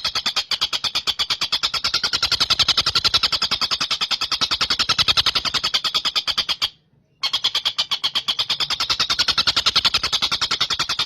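Tengkek buto kingfisher giving a rapid chattering trill of short high notes, about ten a second, breaking off for half a second about seven seconds in and then resuming. This is a call recording played as masteran, for songbirds to copy.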